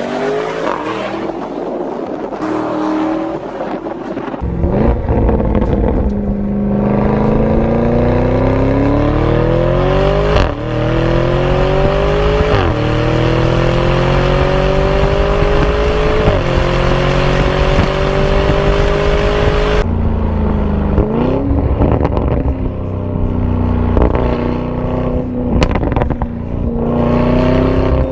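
Lamborghini Urus twin-turbo V8 through a Fi Exhaust valvetronic cat-back exhaust under hard acceleration. After a quieter first few seconds, the engine comes in loud about four seconds in and climbs in pitch through gear upshifts, each a sharp drop and then a fresh climb. About twenty seconds in it backs off and settles to a lower, steadier note.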